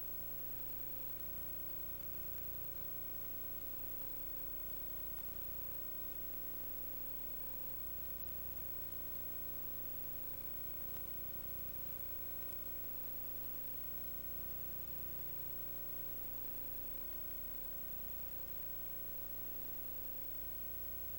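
Steady hum of several fixed tones over an even hiss, unchanging throughout, with no other sound.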